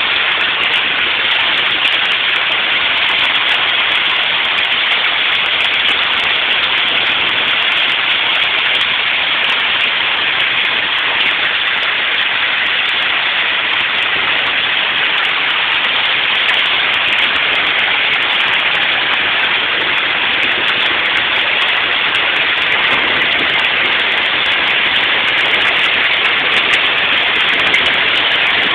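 Rain falling steadily, an even, unbroken hiss of drops that neither builds nor eases.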